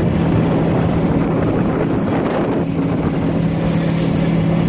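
A sailing ship's engine running with a steady low drone, and wind buffeting the microphone.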